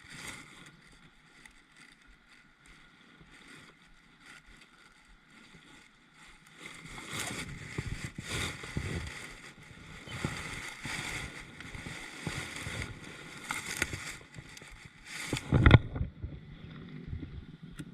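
Kayak paddle strokes swishing through the water, about one a second, after a quiet start, with one sharp knock near the end.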